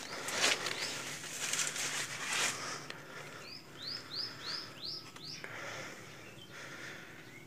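Rustling of leaves and brush for the first couple of seconds, then a bird calls a quick run of about six chirps, each rising and falling in pitch, around the middle.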